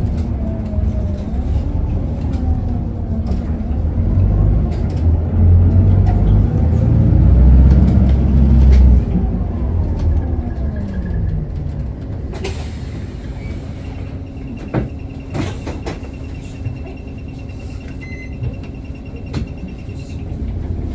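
Isuzu Erga city bus's four-cylinder diesel engine heard from inside the cabin, pulling under load with its note rising and falling, then dropping away as the bus slows about nine seconds in and settling to a quieter steady hum. A high, fast-pulsing beep sounds for several seconds near the end, with a few light clicks.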